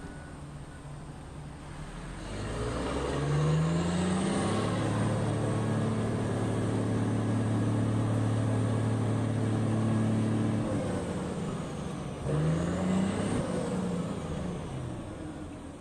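Large diesel engine of a Komatsu HD785 mining dump truck revving up about three seconds in and held at high speed for several seconds, then dropping back, with a second brief rev and fall near the end.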